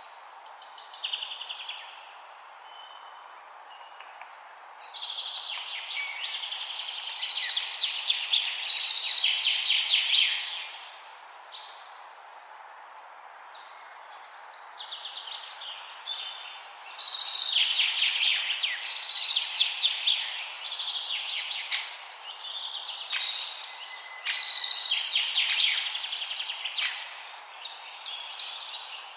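Bird song: phrases of rapid, high chirps and trills lasting several seconds each, separated by pauses of a few seconds, over a steady background hiss.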